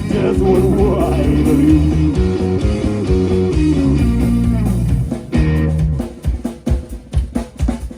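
Live blues-rock band playing, with melodic electric guitar lines over a held bass. About six seconds in, the guitar and bass stop and the drum kit carries on alone with separate hits.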